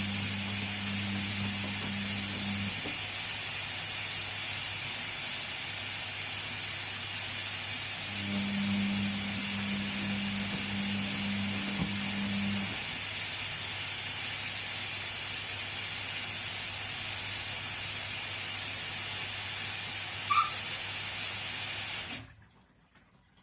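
Washing machine running a wash: a steady hiss of water in the drum, with the motor's low hum turning the drum for a few seconds, pausing, then starting again. The sound cuts off suddenly near the end.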